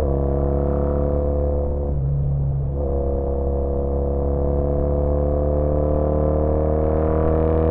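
2013 Triumph Bonneville T100's 865 cc air-cooled parallel-twin engine and Sleeper Pro exhausts running under way. The note breaks off briefly about two seconds in, as at a gear change, then the revs climb slowly and steadily.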